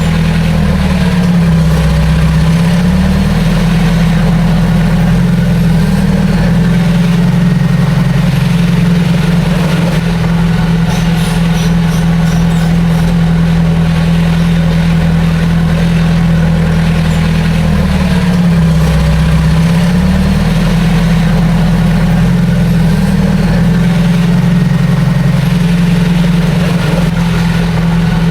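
Heavy construction machine's diesel engine running steadily, its pitch sagging briefly and recovering twice as it takes load.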